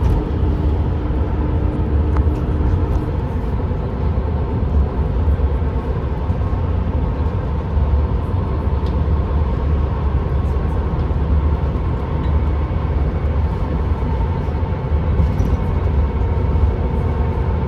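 Steady road and engine noise heard from inside a vehicle travelling on a motorway: a constant low rumble under a hiss of tyre and wind noise, with a faint steady hum that fades out about three seconds in.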